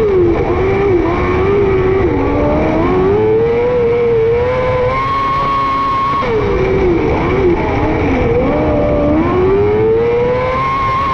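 Micro sprint car's 600cc motorcycle engine at racing speed. Its pitch drops sharply as it backs off into a turn, then climbs again down the straight, and does this twice.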